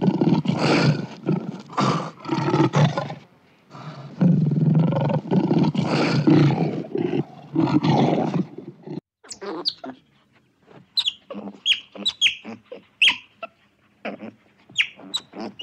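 Lion roaring and growling in two long, loud bouts with a short break between them. After a sudden cut about nine seconds in, otters give a run of quick, high-pitched chirps.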